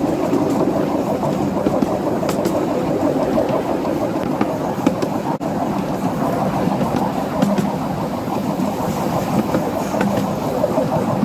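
Steam-hauled miniature railway train running steadily along the track, heard from an open carriage: a continuous rolling rumble of the wheels on the rails, with a few sharp clicks over rail joints.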